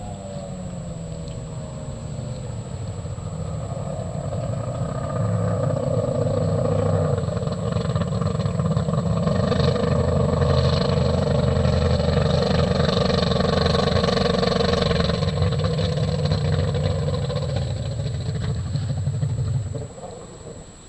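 Mercury racing engine on a drag boat running hard. It grows louder over the first few seconds, holds steady and loud, then drops off abruptly near the end.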